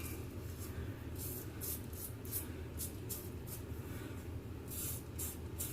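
Razor blade scraping stubble off the scalp in a quick, irregular series of short strokes, over a steady low hum.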